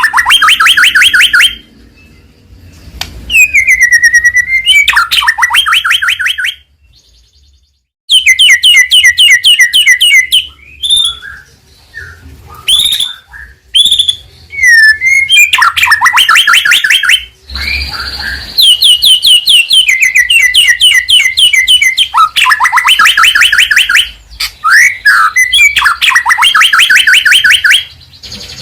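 White-rumped shama (murai batu) singing loudly in phrases of one to two seconds with short pauses. The phrases are fast rattling runs of repeated notes mixed with clear whistled swoops.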